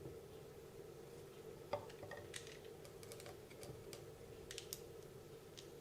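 Faint, scattered light clicks and taps of small RC car gearbox parts being handled, over a steady faint hum.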